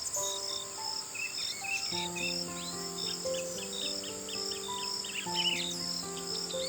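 Night nature ambience of crickets trilling steadily with scattered bird chirps, over calm music of slow, long-held notes.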